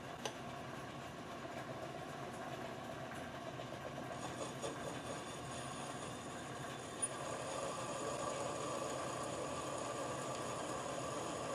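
Metal lathe running steadily, with a short click about a quarter second in and another about seven seconds in; it gets slightly louder about eight seconds in.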